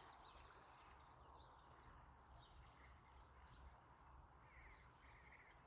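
Near silence outdoors: faint scattered bird chirps over a low, steady background rumble.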